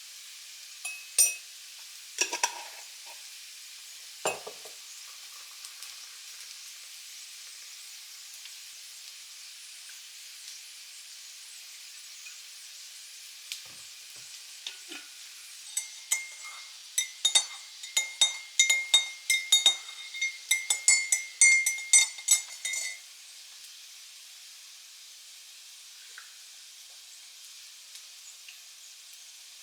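Food sizzling as it fries in a pan, with a steady hiss. There are a few sharp knocks in the first few seconds, then about seven seconds of rapid ringing clinks and scrapes of a metal utensil stirring in the pan.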